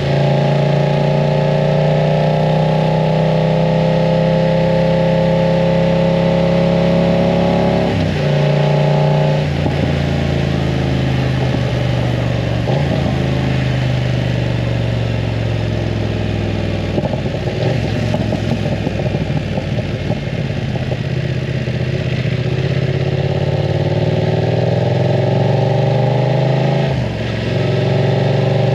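BMW F900 R's parallel-twin engine through a full aftermarket exhaust, accelerating and shifting up through the gears, with gear changes about 8, 9.5 and 13 seconds in. Between about 17 and 21 seconds the note turns ragged and crackly, then it pulls up again, with another shift near the end.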